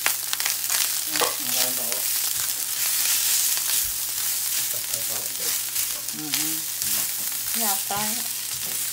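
Fried rice sizzling in a hot pan as it is stirred: a steady, dense hiss with occasional sharp ticks, and a few brief wavering pitched sounds over it.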